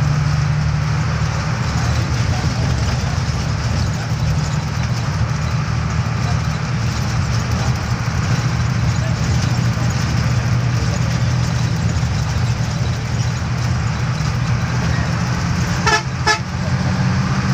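Steady low engine hum of road traffic under a continuous hiss of background noise, with a vehicle horn giving two short toots about 16 seconds in.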